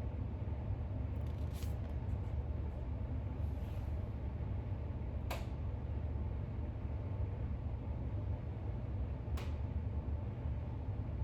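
Steady low room rumble with three brief faint clicks, a few seconds apart.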